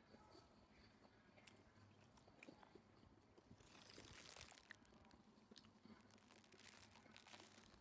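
Faint crunching and chewing of food, in two short crackly spells about halfway through and near the end, with light clicks between.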